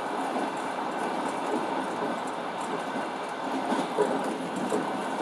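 Passenger train running at speed, heard from inside the carriage: a steady wheel-and-rail noise, with a sharper knock about four seconds in.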